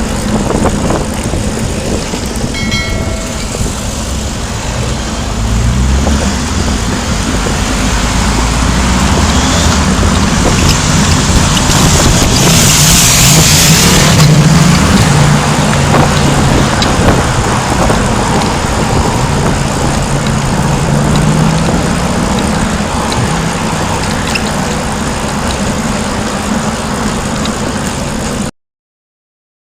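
Road traffic heard from a bicycle-mounted camera: steady wind rush over the microphone with vehicle engines humming and wavering in pitch, among them a motorbike coming up from behind and passing close. The noise swells to its loudest a little before halfway, and everything cuts off suddenly near the end.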